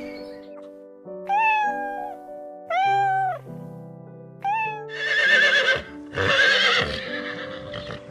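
Horse whinnying several times in a row, the later calls longer with a wavering, shaking pitch, over background music with held notes.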